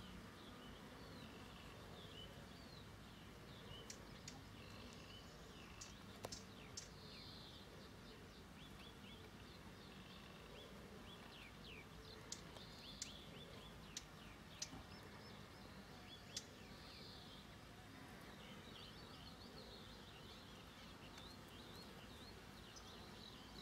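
Faint outdoor ambience with many short, high bird chirps and calls scattered throughout, over a thin steady high tone. A handful of sharp ticks stand out between about 4 and 16 seconds in.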